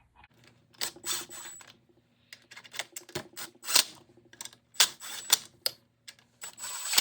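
Ratchet wrench clicking in several short rattling bursts, with single clicks and taps between, as bolts are run down by hand.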